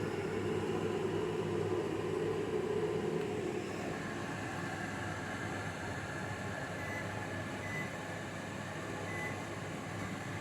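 Mainstays microwave oven running with its fan and hum. The magnetron's louder buzz drops out about four seconds in, leaving the quieter fan and turntable running: the magnetron is cycling on and off at a reduced power level.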